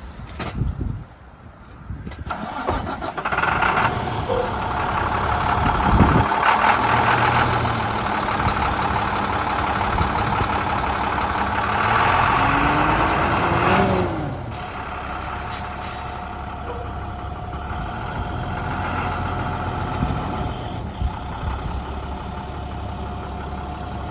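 International DuraStar truck's MaxxForce diesel engine starting about two seconds in and running loud at first. About 14 seconds in it settles to a steadier, quieter idle.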